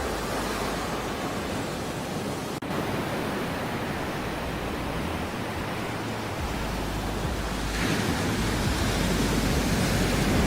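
Ocean surf: a steady rush of sea waves, swelling louder about eight seconds in, with a split-second gap in the sound about two and a half seconds in.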